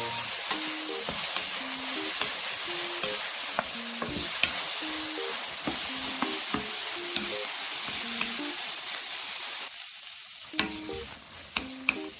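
Shishito peppers and garlic sizzling in oil in a stainless steel pan as they are stirred with a wooden spoon, a steady crackling hiss. The sizzle drops lower about ten seconds in, and a few sharp clicks follow near the end.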